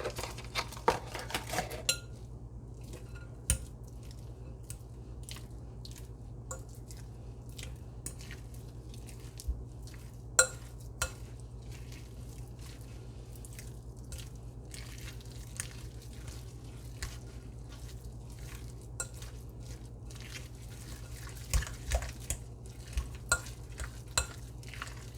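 A utensil clinking and scraping against a dish while filling ingredients are scooped and stirred, in scattered sharp clicks and knocks, with a few louder knocks around ten seconds in and near the end. A steady low hum lies underneath.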